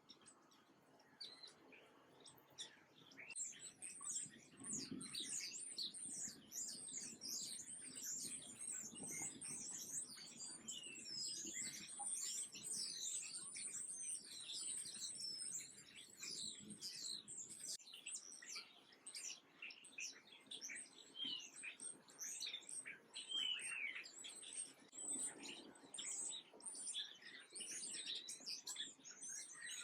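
Many small birds chirping and twittering at once, a dense, continuous chorus of short high notes.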